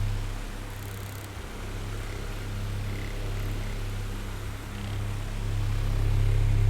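Oscillating electric fan running: a steady low motor hum with soft air hiss. The hum fades about half a second in and swells back near the end as the fan head swings away and back.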